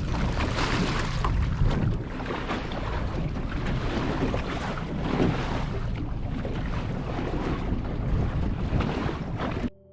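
Wind buffeting the microphone over water sloshing and rushing against a boat's hull, with a heavy low rumble. The sound cuts out abruptly near the end.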